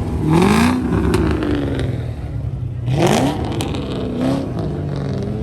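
A car engine revving hard twice, about three seconds apart, its pitch climbing quickly each time, over a steady low engine rumble.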